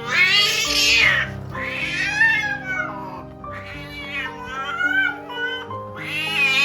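A mother cat yowling: about five long, drawn-out meows that rise and fall in pitch, roughly a second each, typical of a queen's calls during birth. Background music with steady held notes plays underneath.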